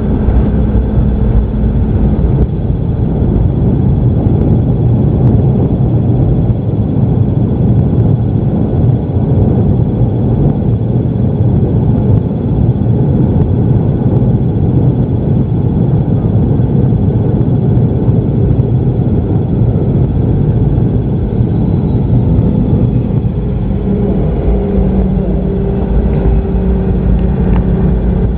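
Boeing 717-200 heard from inside the cabin: a loud, steady rumble of the rear-mounted jet engines and airframe on landing. A low hum drops out about two seconds in and comes back near the end.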